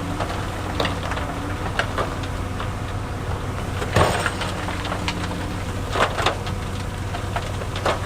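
Heavy diesel earthmoving machinery running steadily, with sharp knocks of stone every second or two; the loudest knock comes about halfway through.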